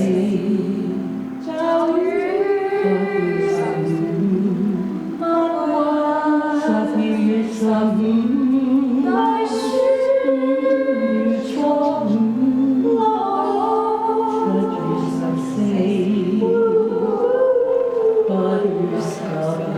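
Music with singing: a song sung in held and gliding notes, with more than one voice line at a time.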